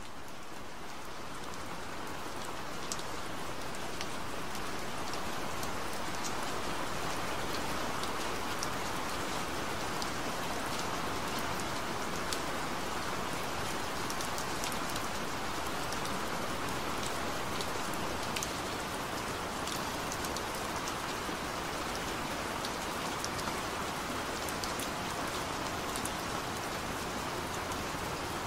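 Steady rain falling, with many scattered sharper drop hits.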